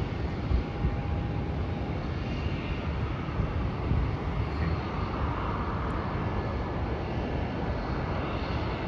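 Distant jet airliner engine noise at an airport: a steady rumble that swells a little about halfway through.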